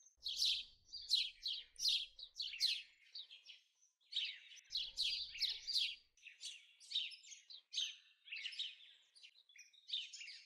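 Small birds chirping: many short, high chirps in quick, continuous succession, with a brief lull about three and a half seconds in.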